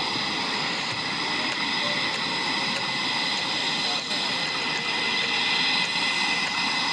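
Steady rushing noise of jet aircraft flying overhead, with crowd chatter underneath.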